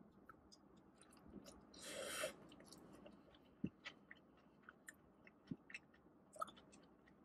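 Faint close-up chewing of a forkful of chicken burrito bowl, with small wet mouth clicks scattered through it. A short hiss comes about two seconds in.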